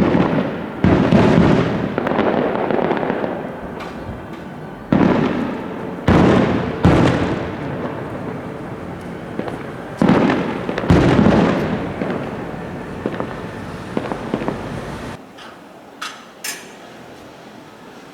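Fireworks shells bursting overhead: sharp loud booms, often two in quick succession, every few seconds, each trailing off in a long rumbling echo. The booms stop about fifteen seconds in, leaving only a few faint pops.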